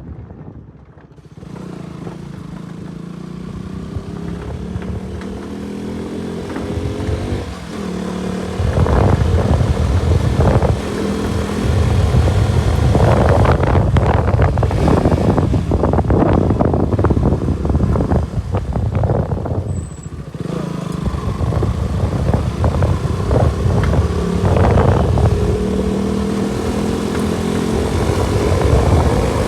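KTM RC 200 motorcycle's single-cylinder engine running under load as it is ridden, its pitch climbing repeatedly as it revs up through the gears, with heavy wind buffeting on the microphone through the middle.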